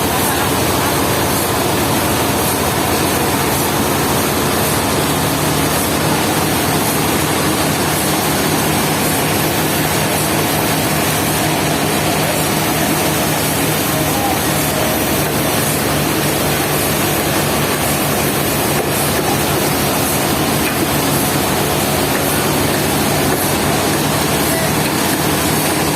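Sawmill machinery running steadily: a loud, even engine drone with a constant low hum and no breaks.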